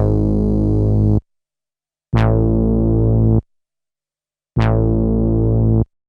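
A 12-bit SP1200 sampler playing back a sampled synthesizer note three times, each held about a second and a quarter with silence between. The first opens bright, and the later two start bright and quickly turn duller.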